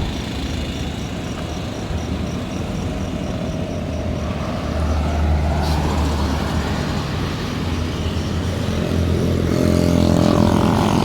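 Diesel engine of a large intercity bus running hard, growing louder from about halfway through, its note climbing over the last couple of seconds as it speeds up.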